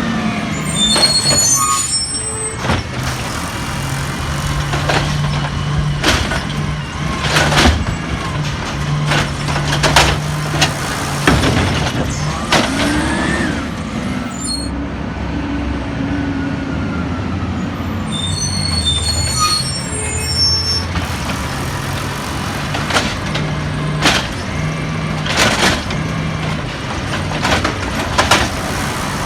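Peterbilt 320 garbage truck working: the engine runs steadily, its pitch rising and falling a few times, with repeated sharp clanks and bangs. Short high squeals come in two clusters, near the start and about two-thirds of the way through.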